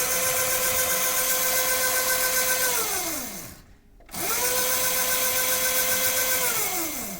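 Children's electric motorcycle's 250 W electric motor and chain drive whining, run up twice on the throttle. Each time it holds a steady high whine for about three seconds, then falls in pitch as it coasts down.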